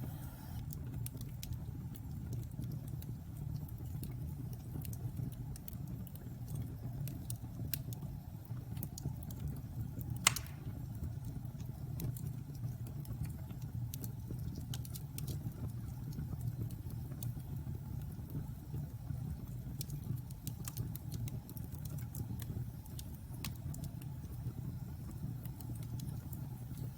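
Logs burning in a fireplace: a steady low rumble of the fire with scattered sharp crackles, and one loud pop about ten seconds in.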